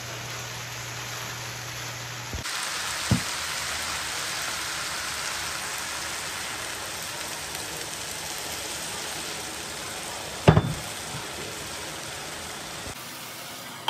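Minced meat and potato cubes cooking in a pan with a steady sizzling hiss. Two knocks come through it, a light one about three seconds in and a louder one about ten and a half seconds in.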